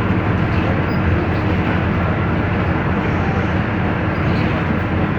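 Scania K310 IA articulated bus under way, heard from on board: a steady diesel engine drone mixed with road and body noise, with no change in pace.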